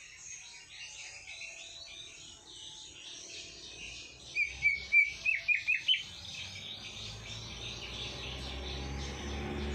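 Songbirds chirping densely and continuously, with one bird breaking in with a loud run of about seven short, sharp whistled notes between four and six seconds in. A low rumble builds under the birds near the end.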